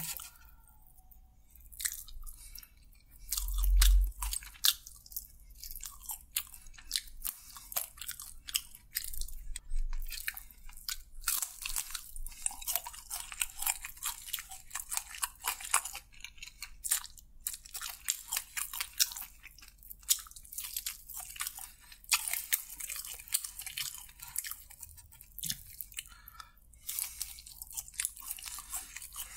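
Close-miked chewing and crunching of crispy fried chicken: dense crackly bites and chews, mukbang ASMR style. About four seconds in there is one dull low thump, the loudest sound here.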